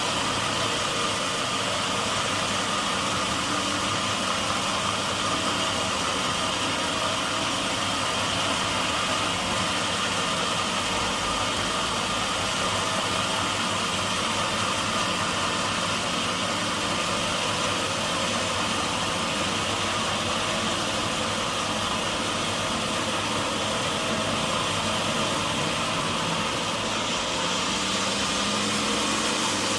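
Sawmill machinery running steadily, a constant mechanical drone and hiss with no change in level.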